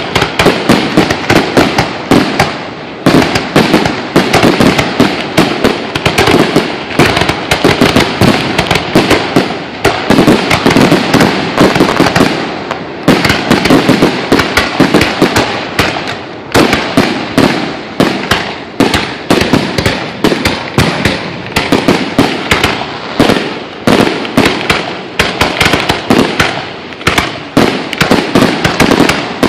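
Fireworks display: shells launched and bursting in rapid succession, a dense barrage of bangs and cracks several a second with hardly a pause.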